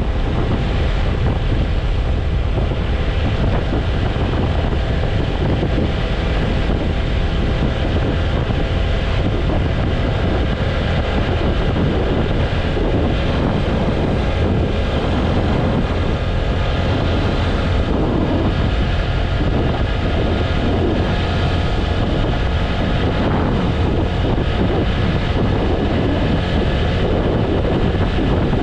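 Wind buffeting the microphone at highway speed over the steady running of a TVS Apache RTR 160 4V's single-cylinder engine and its tyre noise.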